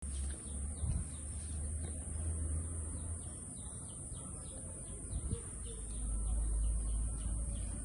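Small birds chirping repeatedly in the background, short calls coming every fraction of a second, over a steady high-pitched hiss and a low rumble on the microphone.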